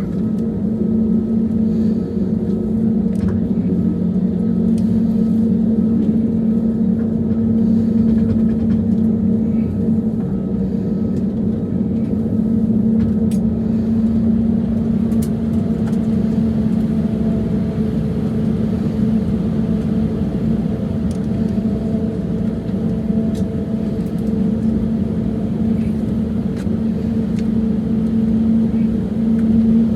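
Airbus A320neo's CFM LEAP-1A engines running at idle after start-up, a steady rumble with a steady low hum, heard inside the cabin. A fainter, higher tone joins about halfway through.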